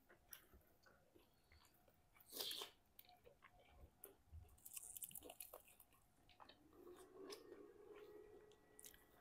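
Faint close-up chewing and biting into KFC Smoky Grilled chicken: scattered small wet clicks of the mouth, with one louder bite about two and a half seconds in.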